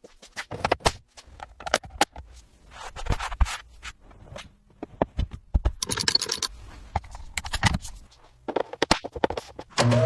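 Irregular scraping and scratching strokes mixed with sharp clicks, as of hand work on a surface.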